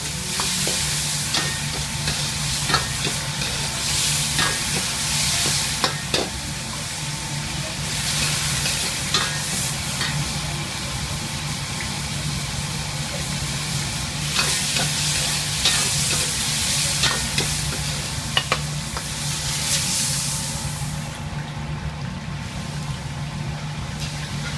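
Pork, ginger and garlic frying in hot oil in a wok: steady sizzling, with a metal ladle clicking and scraping against the wok as it stirs. The sizzle dies down near the end.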